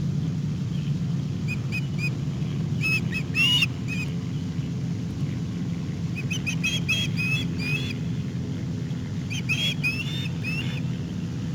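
A bird calling in four bouts of short chirps, one of them sliding down in pitch, over a steady low rumble.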